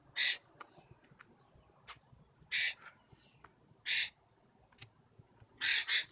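Blackbirds giving short, harsh, scratchy calls, four of them spaced one to two seconds apart, the last one doubled.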